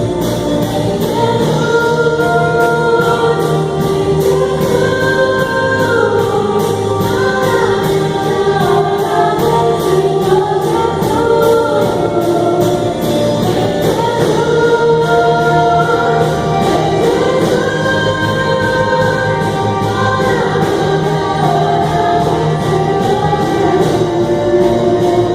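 Group of voices singing a gospel worship song over a steady beat.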